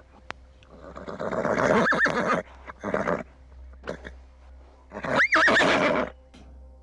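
Horse neighing twice, about three seconds apart, each a loud whinny with a quavering high pitch.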